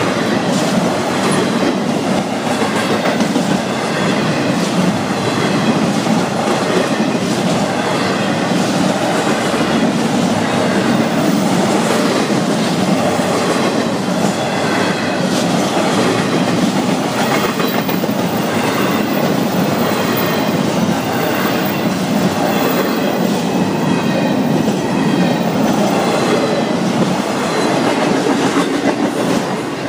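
Florida East Coast Railway intermodal freight cars rolling steadily past at speed, their wheels clacking over the rail joints.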